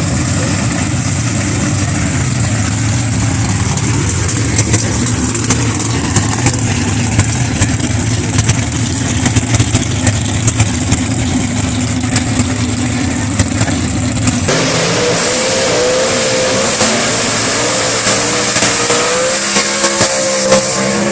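Race car engines running with a steady low rumble and scattered clicks. About fourteen seconds in, the sound changes abruptly to a brighter noise with an engine note that rises and falls.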